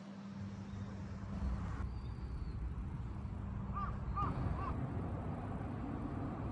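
Outdoor background with a steady low rumble, and a bird calling three short times about four seconds in.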